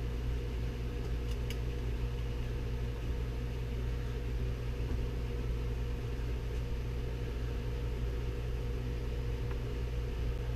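Steady low hum with a faint even hiss, and a couple of faint clicks about a second and a half in.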